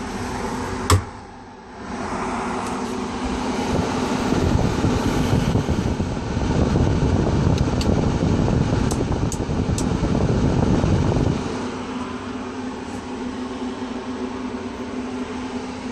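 A fan motor running steadily with a hum, after a sharp click about a second in; a louder low rushing sound rises for several seconds in the middle, then falls back to the steadier hum.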